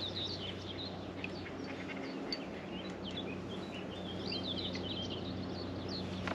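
Small birds chirping and twittering in many short calls, with a busier run of calls past the middle, over a steady low hum and light outdoor background noise.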